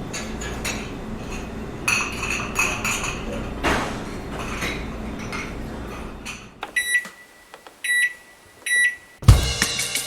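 Microwave oven running with a steady low hum, with a few clinks of dishes. About two-thirds of the way in the hum stops and the microwave gives three beeps about a second apart, the signal that it has finished. A drum kit comes in near the end.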